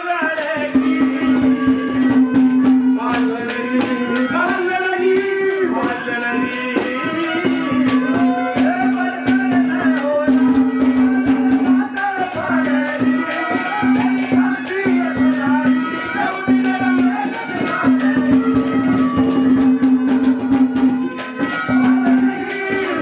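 Instrumental Haryanvi ragni folk music: a wavering, gliding melody over a steady held drone note, with a busy tabla-type hand-drum rhythm.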